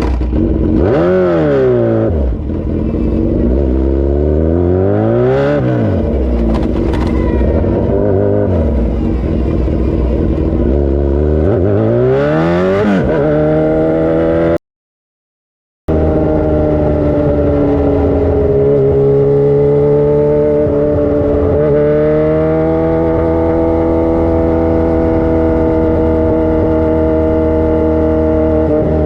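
Motorcycle engine revved up and down several times, then, after a brief dropout about halfway, running steadily at a held pace with slow, gentle rises in pitch.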